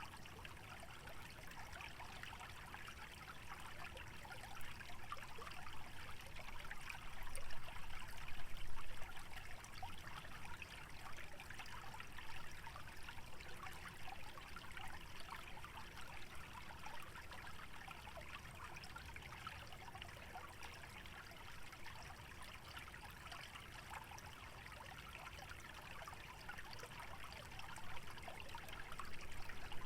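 Small wetland stream trickling and babbling steadily over its bed, swelling a little louder around eight seconds in and again near the end.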